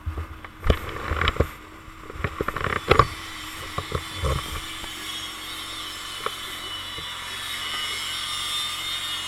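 A run of sharp knocks and clicks with low thumps over the first four seconds or so. After that comes a steady noise of a motorcycle under way, with a faint steady hum.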